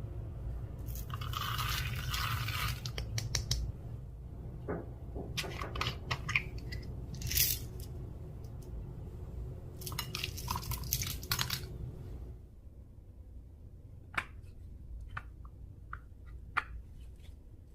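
Clear slime being squished and mixed by hand, with wet crackling and popping in three spells, then a few softer clicks and pops near the end.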